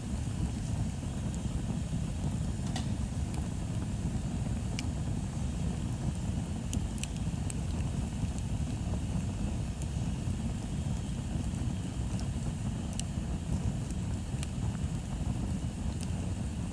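Wood bonfire burning: a steady low rumble with occasional sharp crackles and pops from the burning wood.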